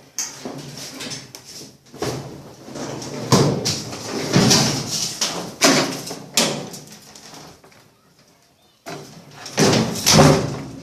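Electrolux washing machine cabinet being tipped over onto its top: a series of scraping and knocking bursts as the cabinet shifts against the floor, with a brief lull about eight seconds in before a last pair of loud knocks.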